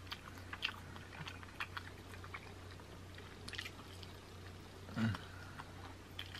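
Close-miked chewing and wet mouth smacks as buffalo chicken wing meat is bitten off the bone and chewed: small irregular clicks and smacks over a faint steady low hum. About five seconds in, a brief low hum from the eater stands out as the loudest sound.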